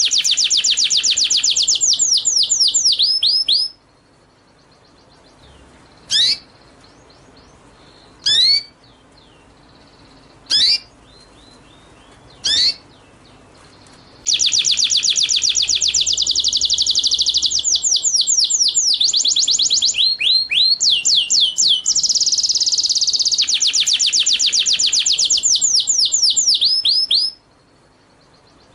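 Recorded song of a small songbird: a fast trill of high, sweeping whistled notes that slows before it stops, then four single sweeping notes about two seconds apart, then a long fast trill again.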